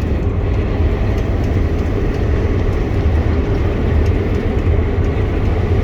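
Heavy farm vehicle engine running steadily, heard from inside its cab: a constant low rumble with an even mechanical hum above it.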